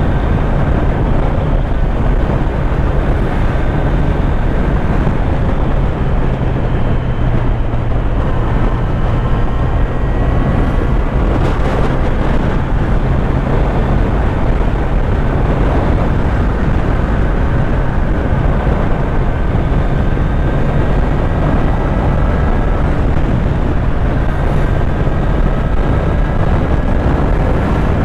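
Kawasaki Z900's inline-four engine running steadily while the motorcycle is ridden, its note holding at a fairly even pitch.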